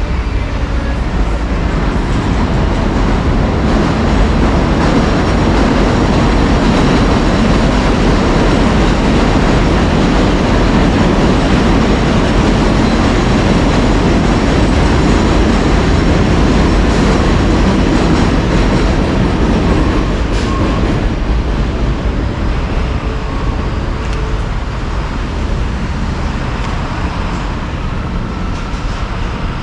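Subway train running on the elevated track, a loud steady rumble and wheel clatter that eases off in the last third as it moves away.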